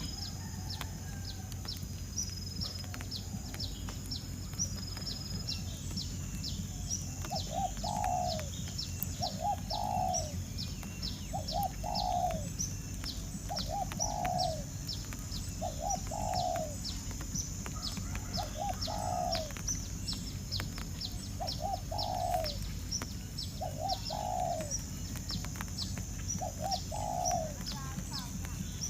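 Birds calling outdoors: a low two- or three-note call repeated about every two seconds from about a quarter of the way in, over a steady stream of rapid, high-pitched chirps.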